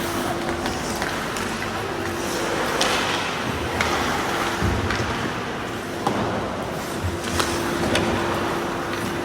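Hockey game play on a rink: a steady scraping of skates with scattered sharp clicks and knocks of sticks and puck, over an on-and-off steady hum.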